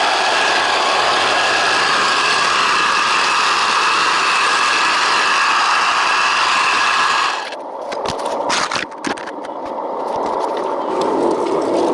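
1/14-scale hydraulic RC construction machine running, its motor and hydraulic pump making a steady whine. The whine cuts out about seven seconds in, leaving a few clicks and knocks of metal and material, then builds back near the end.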